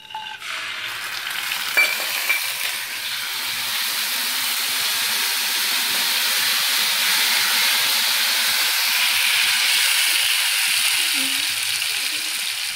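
Grated tomato sizzling in hot oil in a kadhai. The sizzle starts as the tomato goes in and runs steadily while it is stirred with a spatula, with two sharp knocks about two seconds in.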